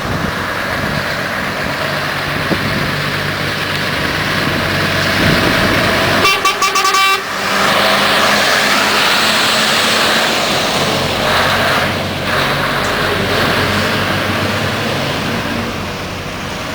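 Scania R500 V8 diesel truck running, then sounding its horn in a quick series of short toots lasting about a second, about six seconds in. After that comes loud rushing engine and road noise as the truck passes, easing slightly near the end.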